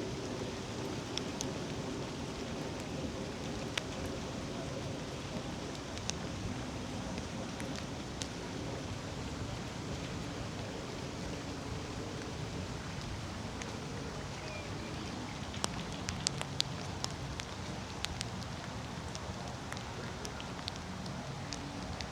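Steady rain falling, an even hiss with scattered sharp ticks of drops close by, several of them bunched together about two-thirds of the way through.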